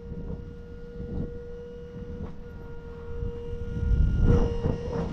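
Hydraulic pump on an equipment trailer running as the trailer's tail is raised: a steady whine over a low rumble, which gets louder with some clatter about four seconds in.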